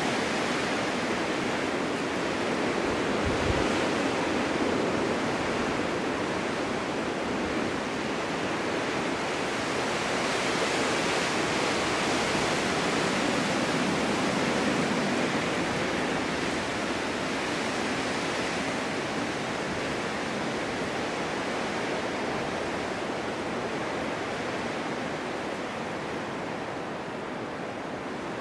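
Snowstorm wind blowing steadily, swelling and easing slowly, a little quieter near the end.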